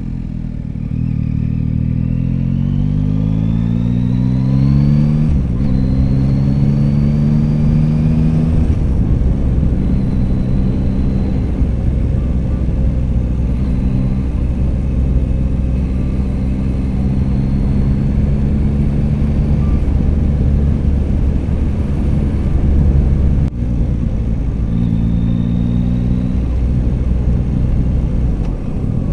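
Yamaha XSR900GP motorcycle's inline-three engine on the move. It rises in pitch as it accelerates for the first few seconds, drops back at a gear change about five seconds in, then runs at a fairly steady pitch over a heavy low rumble.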